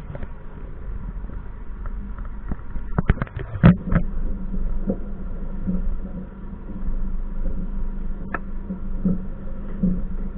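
Train running: a steady low rumble with recurring thuds, and a short burst of sharp clattering knocks about three seconds in.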